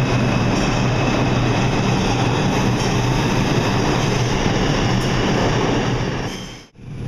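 New York City subway train running, with a steady, loud rumble and rail noise. The sound drops away sharply for a moment near the end.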